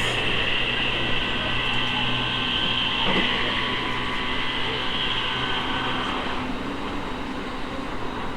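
E217 series electric train running, heard from inside the car: a steady high-pitched whine from the motors with a low hum and rail noise beneath. The high whine fades out about six seconds in, leaving a lower, steadier drone.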